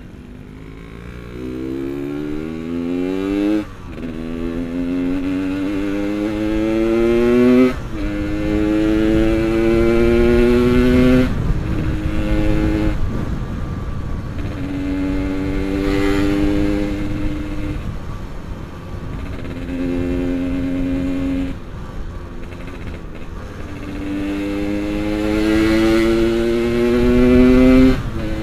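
Yamaha RX-King's two-stroke single-cylinder engine pulling up through the gears. Its pitch rises in each gear and drops sharply at three upshifts in the first twelve seconds, then holds at steadier cruising speeds with a fall a little after twenty seconds, before rising again near the end. A low wind rumble on the helmet microphone runs underneath.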